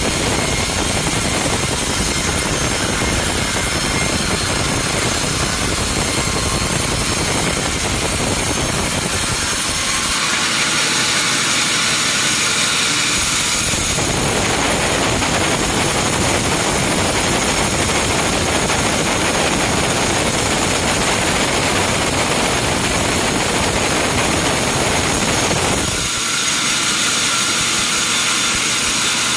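Sawmill machinery running loudly and steadily, an engine with a saw cutting wood. The sound changes abruptly a few times.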